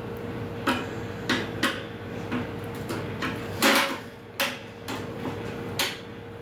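Metal grill parts clanking and knocking as they are handled and fitted together during assembly: about eight separate knocks, the loudest a little past halfway, over a faint steady hum.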